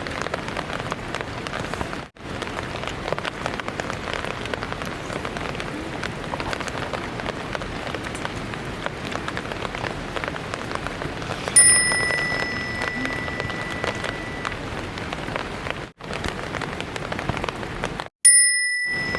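Heavy rain falling steadily, with many individual drops pattering. A bell-like ding rings out twice, a little past halfway and again near the end, each one fading over a couple of seconds.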